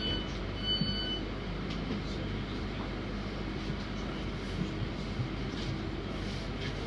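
Inside a class 323 electric multiple unit standing at a station: a steady low hum from the train. A high electronic beep sounds twice in the first second, then stops, and a few faint clicks follow.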